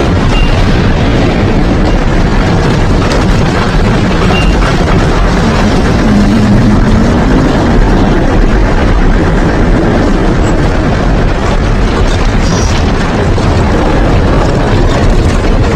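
Heavy rain pouring down in a windstorm, with strong gusts buffeting the microphone: a loud, steady rushing noise with a deep rumble underneath.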